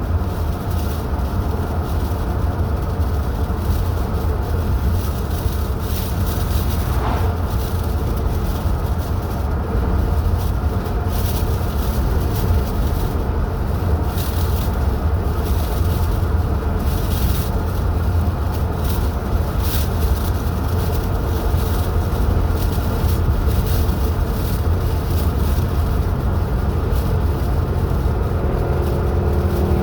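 A car driving at steady speed: a constant low engine and road rumble with tyre and wind noise.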